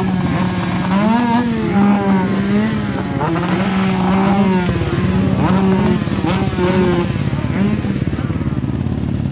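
Several 125 cc two-stroke motocross bikes running together, with engines repeatedly blipped so the pitch rises and falls over a continuous engine din.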